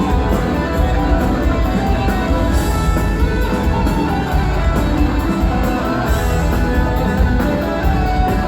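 Live rock band playing, electric guitars over bass and a steady drumbeat.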